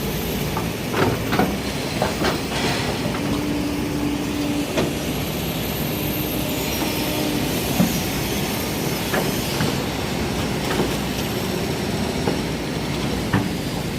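Excavator working: its diesel engine running steadily under load, with scattered metallic clanks and knocks and two short steady whines in the middle.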